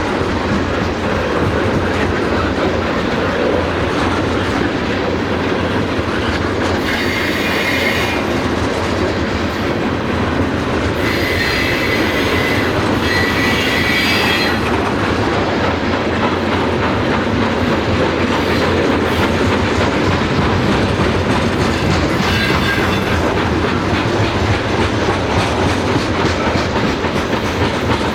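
Railcars rolling past on the track: a steady rumble and clatter of wheels on rail. Short, high wheel squeals ring out four times, twice close together near the middle.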